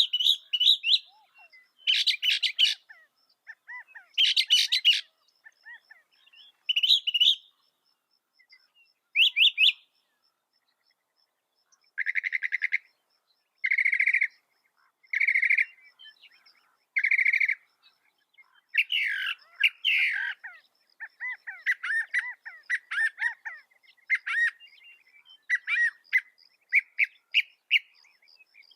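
Mockingbird singing: a string of varied phrases with short pauses between them, one phrase repeated four times in a row midway, then a quicker run of changing notes.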